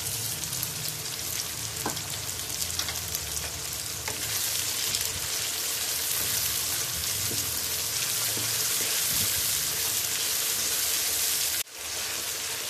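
Tomato-and-onion masala sizzling in hot oil in a nonstick wok while a wooden spatula stirs it, with a few light taps. The sizzle drops out for a moment near the end, then comes back.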